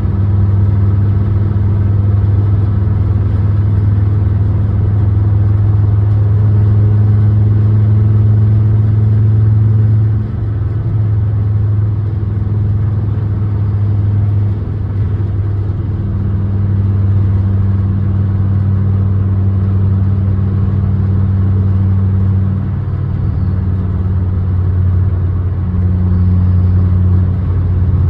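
2006 Honda Accord running steadily while driving, a constant low engine drone that shifts slightly in pitch and level a few times.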